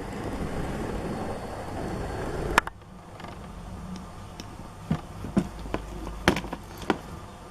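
Toy vehicles being handled: a steady rustling noise for the first couple of seconds, cut off by a sharp click, then a run of light clicks and knocks.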